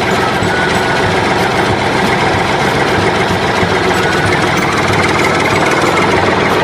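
Construction machine's engine running steadily, a loud, even mechanical noise with a low rhythmic pulse.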